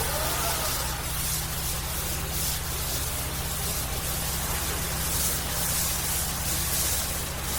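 Pressure-washing rig's engine running steadily with a low drone, with a steady hiss over it.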